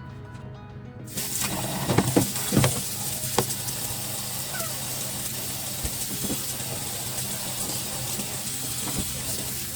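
Kitchen tap turned on about a second in, water running steadily into the sink, with a few knocks of dishes soon after it starts.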